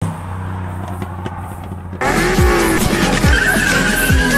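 A car engine gives a steady low drone for about two seconds. Then music cuts in suddenly, with deep booming bass drums that drop in pitch.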